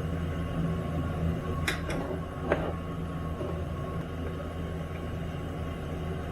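A steady low hum, with two short sharp clicks close together a little under two seconds in.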